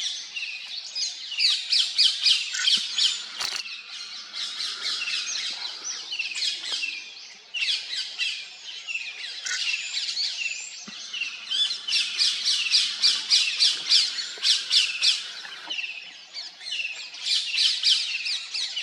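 Birds calling in rapid runs of high, sharp notes, in bursts of a second or more that come again every few seconds.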